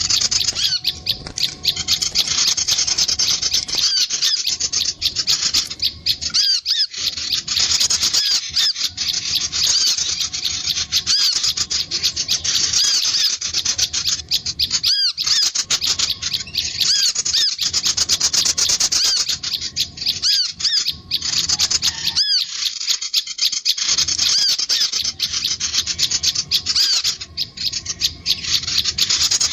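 Small songbirds calling in a fast, continuous stream of high, sharp chirps and trills.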